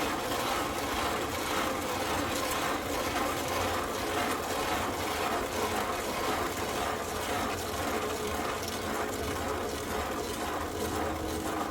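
A mud mixer churning a batch of concrete: a steady, gritty mechanical grinding with a regular scraping rhythm.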